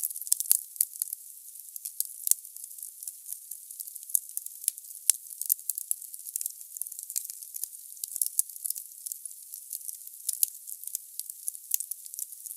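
Wood logs burning in a fireplace: a steady high hiss with rapid crackling and a few sharper pops in the first few seconds.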